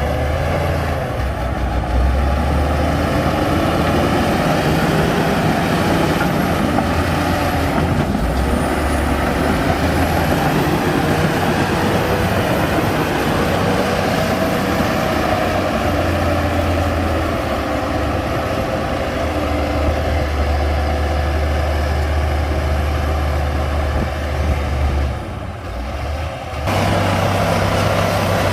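Heavy diesel earthmoving machinery running steadily with a deep low rumble and a slowly shifting engine pitch, briefly dropping in level about 25 seconds in.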